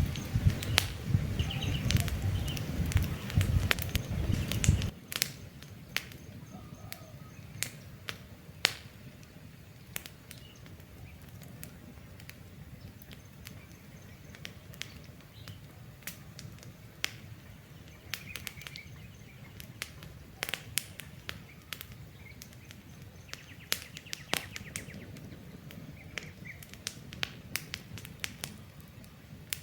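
Campfire crackling with irregular sharp pops, and faint bird chirps now and then. A loud low rumble under the crackle for about the first five seconds cuts off abruptly.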